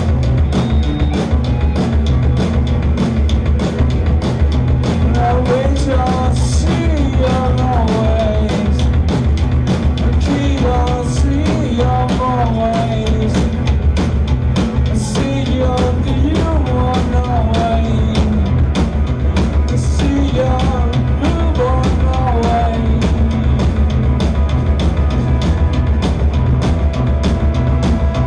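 A live rock band with drums, bass and guitars playing a loud, dense improvised jam over a steady drumbeat. A wavering melodic line comes in and goes out in phrases through the middle stretch.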